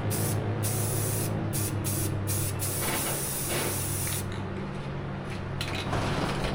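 Semi-gloss black paint being sprayed in a long hiss that stops about four seconds in, over a steady low hum.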